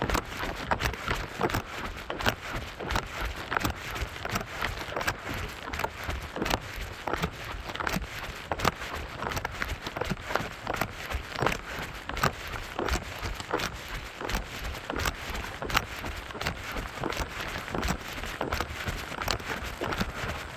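Running footsteps on a mountain trail, a steady rhythm of about two to three steps a second, with crunching from the ground underfoot.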